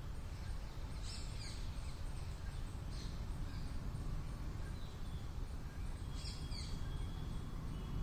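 Birds chirping: short high calls that fall in pitch, in small groups about a second in, around three seconds and again near the end. Under them runs a steady low rumble of outdoor noise.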